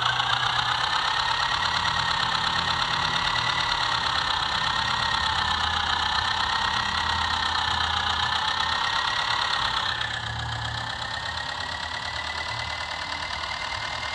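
Small electric motor of a toy tractor running with a steady whine, its pitch wavering slightly; it drops a little in loudness about ten seconds in.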